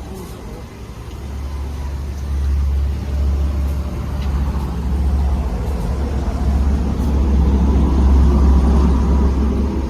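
Automatic pet wash machine running its water disinfection cycle: a pump hums in about a second in and runs steadily, with a hiss of spraying water that builds louder.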